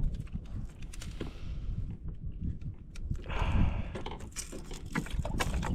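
Handling noises from unhooking a caught fish aboard a kayak: scattered clicks and knocks from the hook and fish being handled, with a short rush of noise about three and a half seconds in.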